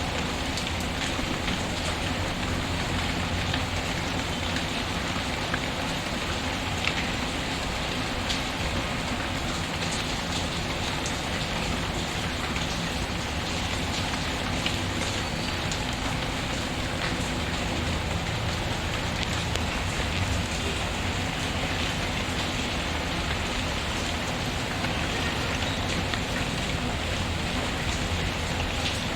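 Steady, even rain mixed with the scattered sharp crackles of a wood fire burning in a fireplace.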